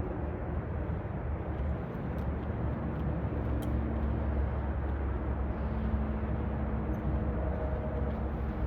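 An engine running steadily with a low drone throughout.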